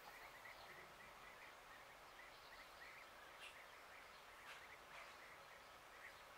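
Near silence, with faint, scattered short bird chirps over a low outdoor hiss.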